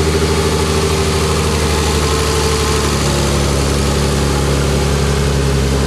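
Nissan RB25DET turbocharged straight-six idling steadily just after a quick first start following its reinstallation. The idle settles slightly lower about two seconds in.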